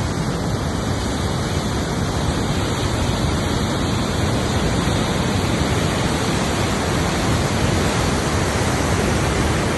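The swollen, flooding Teesta River rushing as a steady, even noise with no break, cutting off suddenly at the end.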